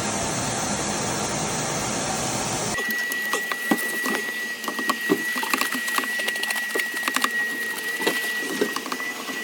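Steady rushing air noise of a cleaning machine working at the dust under a sink's floor-heating manifold, cutting off abruptly about three seconds in. Then a thin steady high whine with scattered small clicks and taps.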